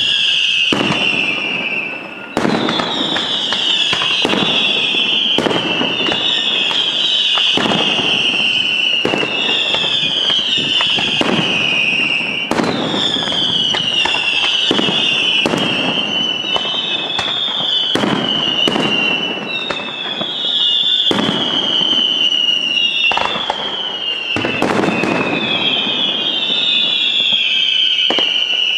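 Aerial fireworks display by Gioiese Fireworks: a continuous run of sharp bangs from shell bursts, overlaid with high whistles that each slide down in pitch, a new one starting every second and a half or so.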